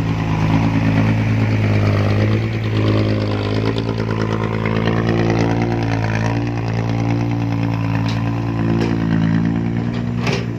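Heavy diesel engines of a loaded six-wheel dump truck and an excavator running steadily under load as the truck is pushed up a sticky clay ramp. The engine note rises and falls slightly through the middle.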